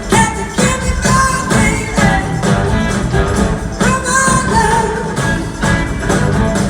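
Live rock band playing at full volume in a large hall: a steady drum beat, bass and guitars, with a melody line that slides between held notes.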